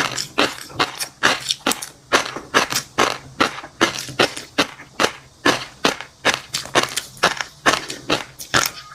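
Close-miked chewing of fish roe and crunchy seafood topping: short crisp crunches, about three a second, going on steadily.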